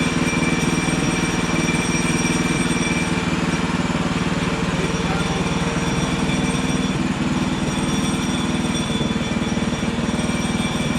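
Hudson Hunter portable band sawmill running steadily, its engine holding a constant hum. A thin high whine fades out about three seconds in and comes back near the end.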